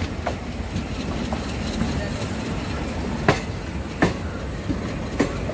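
Diesel-hauled train running on track: a steady low rumble of wheels, with a few sharp clicks over rail joints in the second half.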